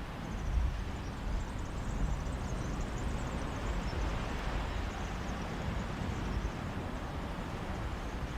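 Mediterranean sea waves washing on a beach: a steady rushing hiss, with sea breeze gusting on the microphone as a low rumble underneath.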